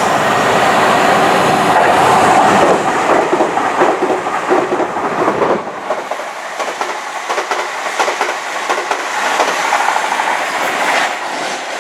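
A 10-coach passenger train passing at speed below: a loud, steady rush of wheels on rail with rapid clickety-clack over the rail joints. The deepest rumble falls away about halfway through, and a lighter rush carries on.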